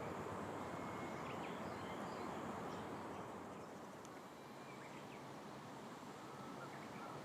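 Steady outdoor background noise with a few faint, short bird chirps and a thin, high, steady insect buzz above it.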